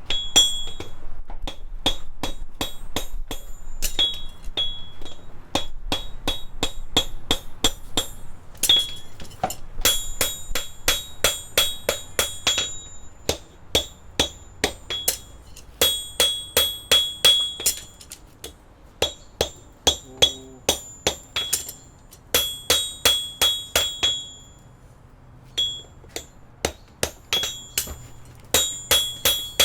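Farrier's hammer striking a steel horseshoe: runs of sharp ringing metallic blows, about three to four a second, with short pauses between runs.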